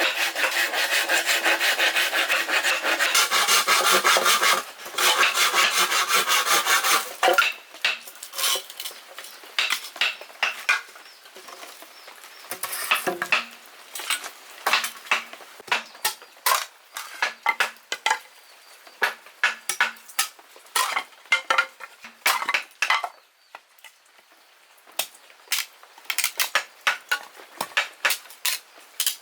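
A hand tool rasping back and forth on bamboo for about the first seven seconds, then stopping. After that come scattered short, sharp wooden knocks and clicks.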